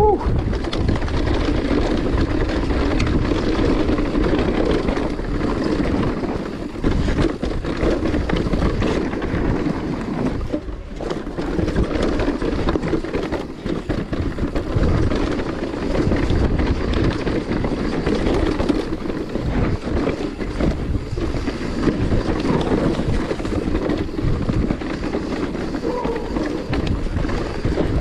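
Wind rushing over the microphone, with mountain-bike tyres rolling on loose, dry dirt and the bike rattling over bumps on a fast descent. It is a steady, loud rushing noise broken by frequent short knocks.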